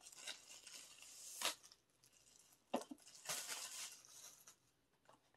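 Album packaging being torn open and handled: papery rustling and tearing, with a sharp click about a second and a half in and two more close together near the middle.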